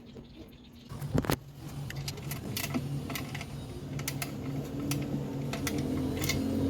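Nissan Sentra engine cranked and catching about a second in, then running at idle through a newly fitted muffler, growing louder, with scattered light clicks over it.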